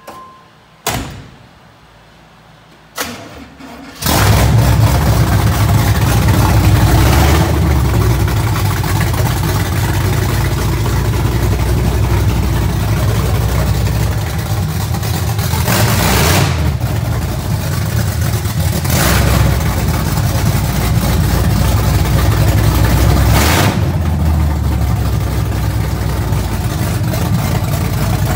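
Small-block Chevy V8 with headers and a loud open-sounding exhaust firing up about four seconds in, then running loud with several short revs of the throttle. It is a freshly built engine being run for break-in.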